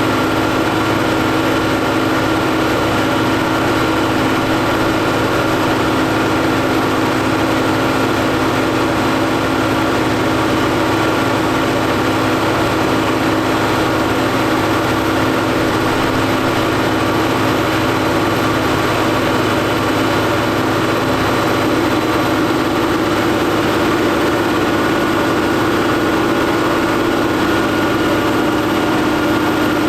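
Fendt 716 tractor engine running at constant revs during a PTO dynamometer test, with a steady hum. The hum grows a little stronger about two-thirds of the way through.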